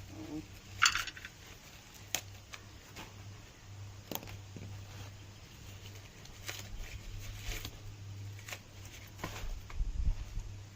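Dry maize leaves and stalks crackling and snapping in irregular, scattered clicks as ears of corn are picked by hand, with a few low thumps near the end.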